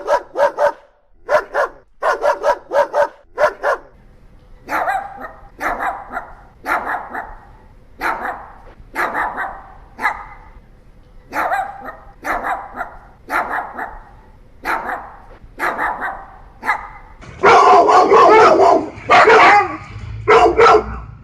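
Dogs barking, one breed after another: first a boxer's quick barks in tight clusters, then a Pomeranian's single barks about once a second, then louder, dense barking near the end.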